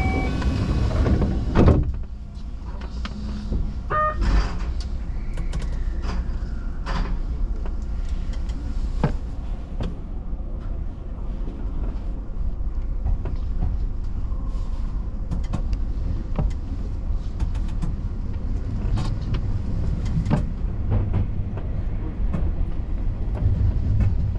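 Keio Inokashira Line electric train departing a station, heard from behind the driver's cab. A heavy knock about two seconds in, typical of the doors shutting, then a short beep about four seconds in. After that a steady low running rumble, with scattered clicks from the wheels over the track.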